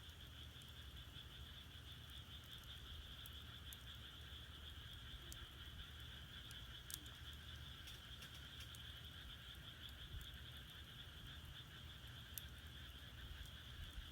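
A chorus of many frogs calling steadily, a dense, continuous trill. A few small crackles from burning firewood pop through it now and then.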